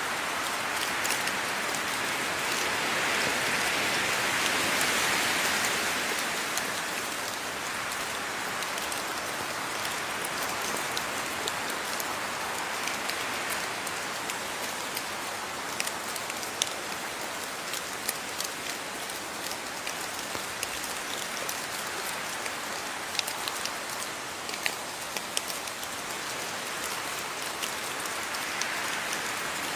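Steady rain falling on a surface, a dense hiss with distinct individual drops ticking through it; the shower swells slightly a few seconds in and again near the end.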